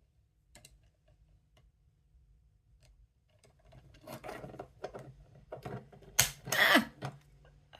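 Small plastic building-block pieces being handled and pressed together. A few faint clicks at first, then busier clicking and rustling from about four seconds in, loudest a little after six seconds.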